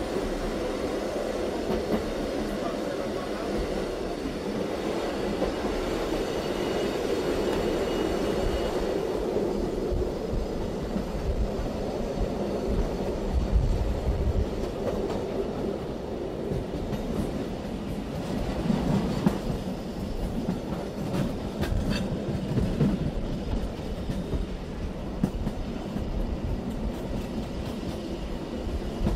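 Running noise inside a BLS passenger coach, with a steady rumble of wheels on rail. In the second half comes a run of sharp clicks and knocks as the wheels pass over rail joints and points in the station area.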